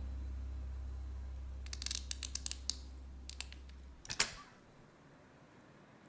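Background music fading out while a run of small, sharp clicks and taps sounds, then one louder click with a short falling ring about four seconds in, followed by quiet room tone.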